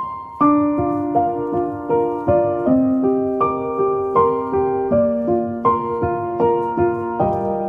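Background piano music: a gentle melody of evenly spaced notes, each struck and fading, about two or three a second.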